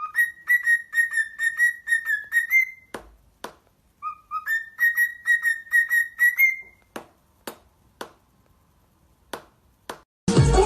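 A parrot whistling twice the same phrase: a short lower note, then a quick run of repeated notes on one pitch, ending on a slightly higher held note. Sharp clicks sound between and after the phrases, and music starts loudly near the end.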